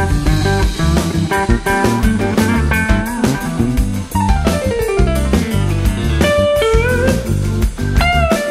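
Instrumental blues-rock guitar music: a lead guitar plays quick runs over bass and drums, with a long sliding descent about four seconds in and bent notes near the end.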